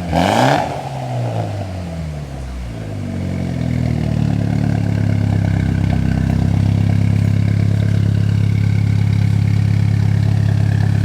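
Mitsubishi Lancer Evolution X's turbocharged 2.0-litre four-cylinder running through its aftermarket exhaust. A rev at the start drops back, and the engine settles into a steady idle.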